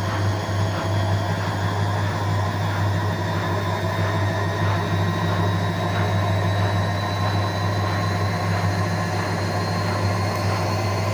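Indesit IWSC5085 washing machine running: a steady low motor hum with a faint high whine that slowly rises in pitch.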